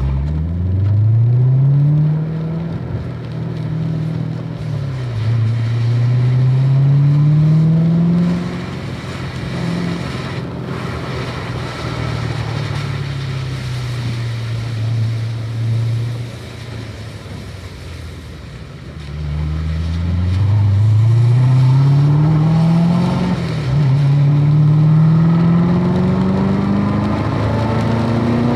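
Car engine accelerating hard through the gears on a wet track on Cup 2 tyres. Its pitch climbs and drops back at each upshift, holds steady for several seconds, falls away about seventeen seconds in, then climbs through two more gears.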